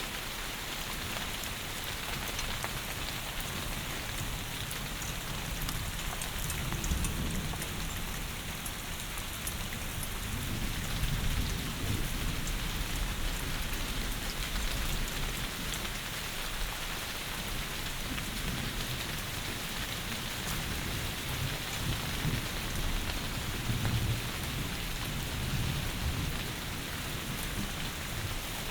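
Heavy rain falling in a steady hiss, with low rumbles of thunder swelling and fading several times: about a quarter of the way in, around the middle, and again in the last third.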